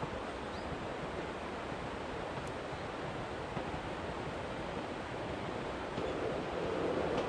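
Steady rushing outdoor noise with no distinct events, growing a little louder about six seconds in.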